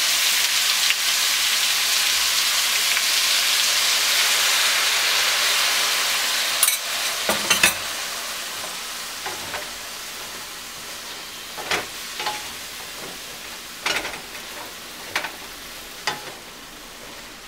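Chicken and broccoli stir-fry sizzling in a frying pan, loud at first and dying down gradually. From about seven seconds in, a wooden spatula knocks and scrapes against the pan as the food is stirred.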